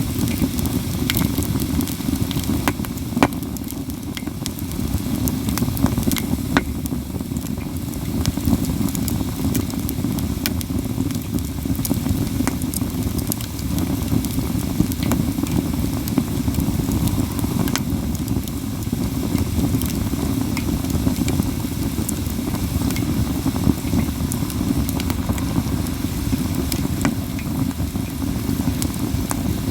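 Katsura wood burning in a campfire, crackling steadily with sharp snapping pops, the loudest about three and six and a half seconds in, over a steady low rumble.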